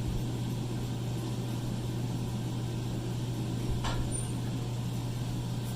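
Blacksmith's forge running with a steady low drone, with one faint light tap about four seconds in.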